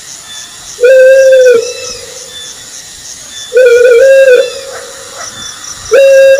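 Owl hooting: three long, steady hoots about two and a half seconds apart, the second broken into two, each trailing off in an echo.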